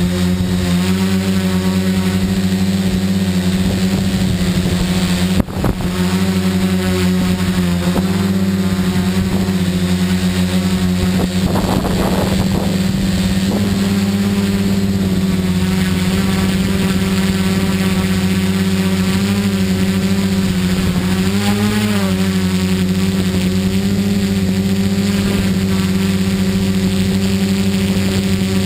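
Tricopter's electric motors and propellers running with a steady whine whose pitch wavers slightly as the throttle is adjusted in flight. A brief sharp click about five and a half seconds in.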